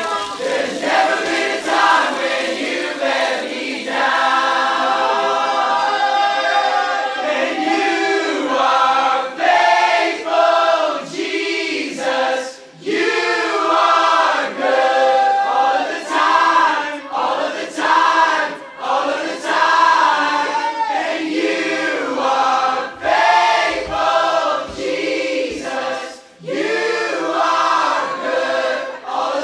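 A group of voices singing a song together, unaccompanied.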